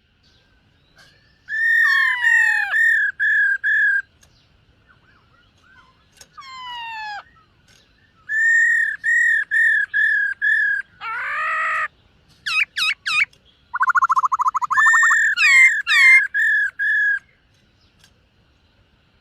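Caged black-throated laughingthrush singing in loud whistled phrases with short pauses between them. Runs of about five or six repeated clear notes alternate with falling slurs, a single rough note, fast up-and-down sweeps and a rapid trill near the end.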